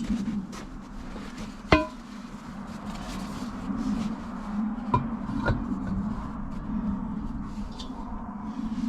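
Metal clinks and knocks as the wheel and its hardware are handled during a wheel test fit. There is one sharp clank that rings briefly about two seconds in, and two lighter knocks around five seconds in, over a steady low hum.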